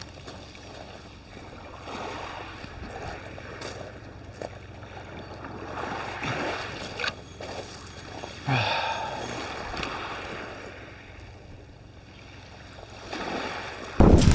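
Wind on the microphone over the wash of sea surf, with a few short knocks and a loud gust of low rumble near the end.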